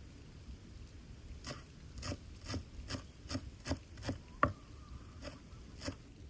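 A run of short scraping or rubbing strokes, about two to three a second, with one sharper click a little past the middle that rings briefly.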